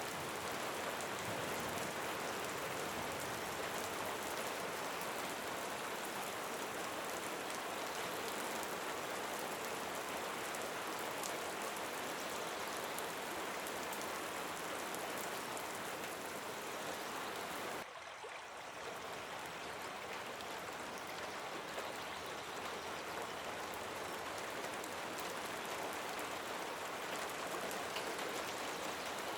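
Steady rain falling, a dense even hiss sprinkled with fine drop ticks, which briefly drops in level a little past halfway through.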